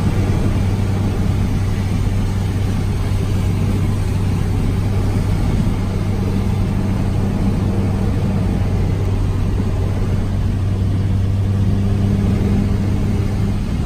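Inside the cabin of a first-generation Honda CRX on the move: the engine drones steadily at a constant cruise, with road and tyre noise from a wet road.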